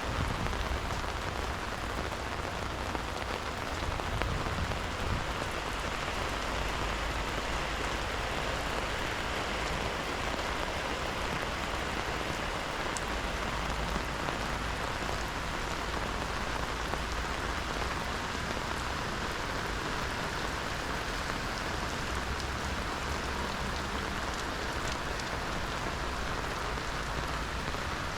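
Steady rain falling, an even hiss of drops that holds at the same strength throughout.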